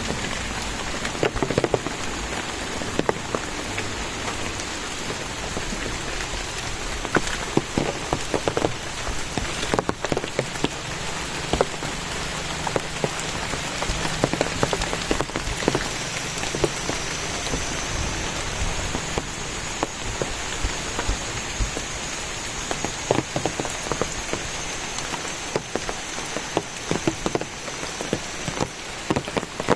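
Steady rain falling, with heavy drops landing close by as irregular sharp taps.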